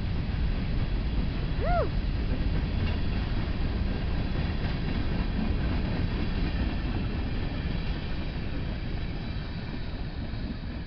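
Covered hopper cars of a freight train rolling past on the track: a steady low rumble of wheels and cars that eases off near the end. A short squeal rises and falls once, about two seconds in.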